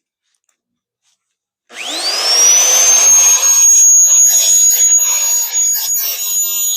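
An electric power tool's motor starts about two seconds in, its whine rising quickly in pitch and then holding steady as it works the steel plate with a rough grinding, rubbing noise.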